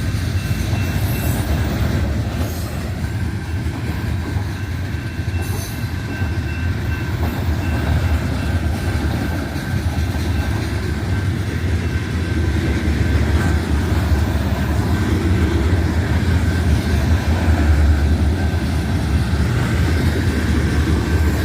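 Long freight train of oil tank cars and boxcars rolling past, a loud, steady low rumble of wheels on the rails with a thin, steady high whine over it.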